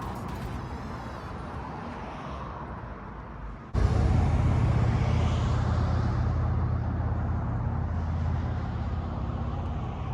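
Road traffic outdoors: a vehicle passing on the street. It jumps suddenly louder about four seconds in, then slowly fades.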